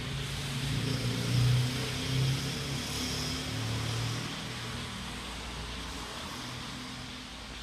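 Honda CB 300R's single-cylinder engine running, with two brief swells in level about a second and a half and two seconds in, then gradually fading.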